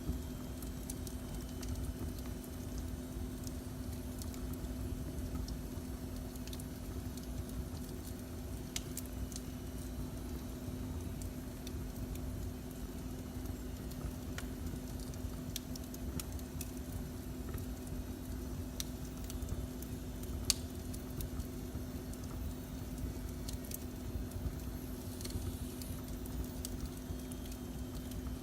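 Wood fire in a fireplace crackling, with scattered sharp pops, one louder about 20 seconds in, over a steady low rumble and hum.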